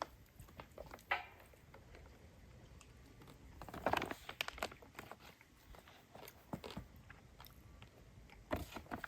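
Small wood fire in a Solo Stove Ranger crackling, with scattered short pops and clicks and a couple of louder crackles about four seconds in and near the end.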